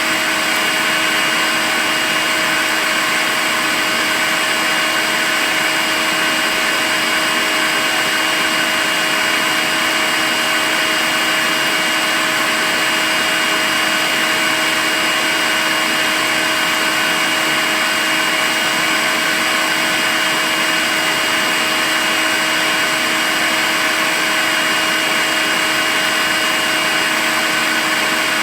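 Makita cordless vacuum cleaner running continuously at one steady speed: an even rush of air with a constant whine from the motor.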